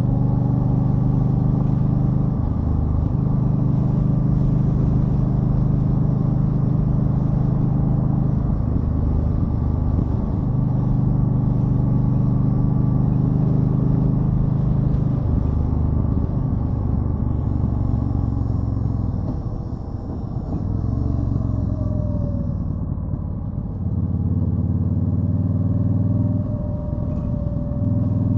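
2013 Yamaha Stryker's V-twin engine running under way on the road, its note shifting several times and easing off for a few seconds around twenty seconds in before picking up again.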